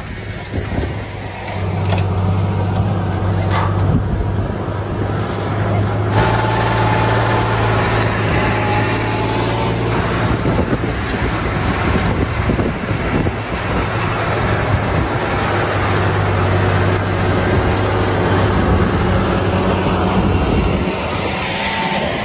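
John Deere 8200 tractor's diesel engine running with a steady low drone. It comes up about a second and a half in and holds until near the end.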